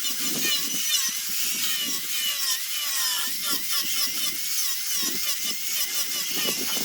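High-speed handheld rotary sanding tool working zelkova root wood, its whine wavering up and down in pitch as it bites and eases off, with rasping from the abrasive on the wood.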